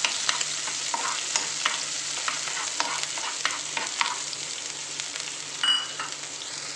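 Chopped garlic and ginger sizzling in hot coconut oil in a frying pan, stirred with a spoon that clicks and scrapes against the pan about every half second. A brief high squeak comes about two-thirds of the way through.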